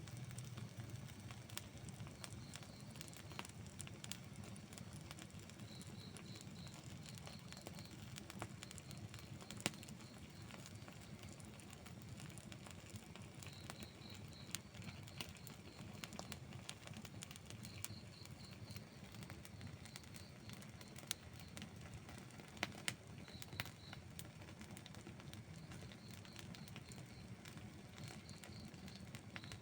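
Outdoor wood campfire burning, crackling steadily with scattered sharp pops over a low rush of flame, and a few louder pops in the second half. Faint short high chirps, in groups of two to four, recur throughout.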